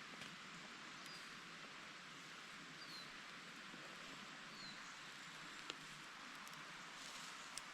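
Faint, steady woodland hiss with three short, high, falling bird chirps and two sharp clicks near the end.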